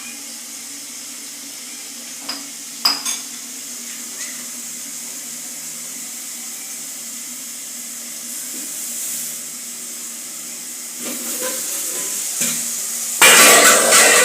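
Onions and garlic frying in oil in a pot, a steady low sizzle with a couple of sharp metal clinks of pot or utensil. Near the end there is some knocking, then a sudden loud burst of sizzling.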